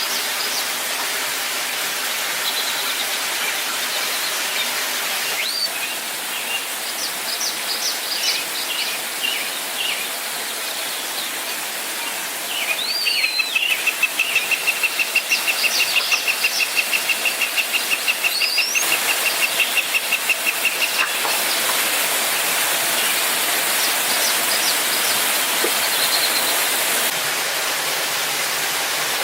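Steady rush of a waterfall, with birds calling over it: scattered short high chirps, then one long fast trill held at one pitch for about seven seconds.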